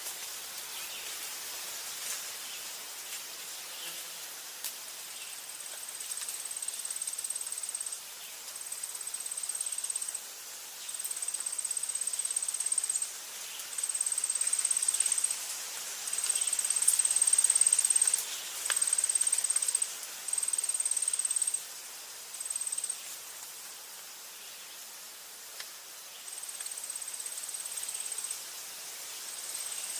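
An insect trilling: a thin, very high, steady trill in bouts of one to two seconds with short breaks. It starts a few seconds in and is loudest around the middle, over a steady soft hiss of forest ambience.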